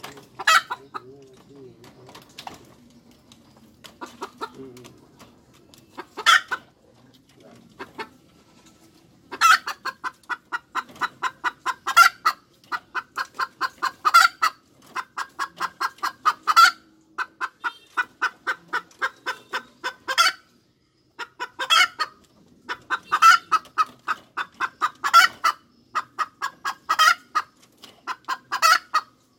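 Domestic hen cackling. A few scattered clucks come first. From about a third of the way in there is a steady run of quick clucks, about five a second, broken every couple of seconds by a louder, drawn-out note.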